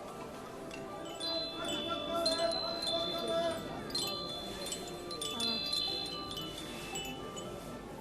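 Wind chimes ringing: several sets of high metal tones, each struck with a sharp start and ringing on, overlapping through the stretch.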